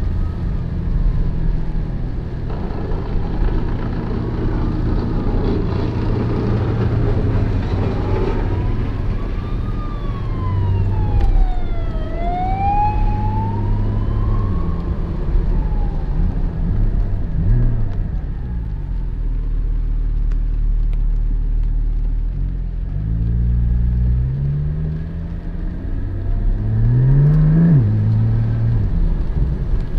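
Porsche 718 Spyder's 4.0-litre flat-six running while driving, over the hiss of tyres on a wet road. In the middle a wailing tone glides slowly up and down like a siren. Near the end the engine climbs in pitch twice under acceleration.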